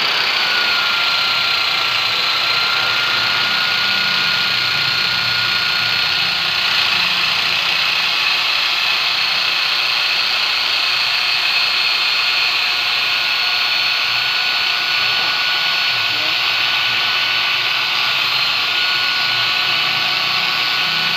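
Electric power tool running steadily under load: a high whine over a loud hiss, the pitch settling slightly in the first couple of seconds.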